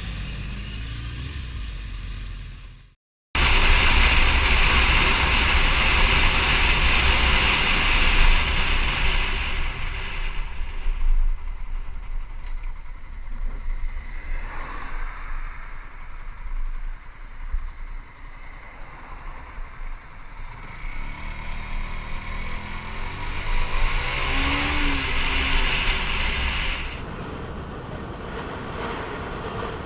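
Vehicle driving noise: engine and road rumble heard from a moving vehicle. It cuts out briefly about three seconds in, then comes back louder, swelling and easing off.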